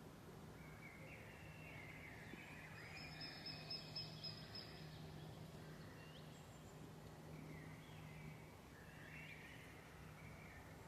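Faint birdsong: several birds giving short chirps and warbling phrases, busiest about three to four seconds in and again near the end, over a faint steady low hum.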